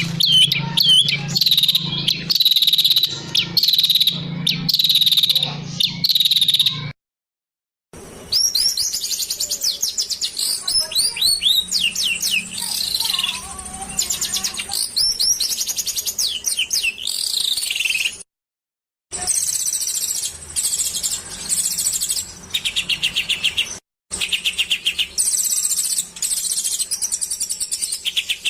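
Masteran birdsong compilation: small songbirds singing rapid high chirps, sweeping whistled notes and fast trills, in separate spliced clips with abrupt silent breaks about 7, 18 and 24 seconds in.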